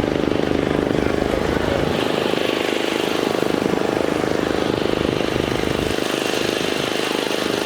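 A vehicle engine running steadily at a constant speed, with an even pulsing rumble and no revving.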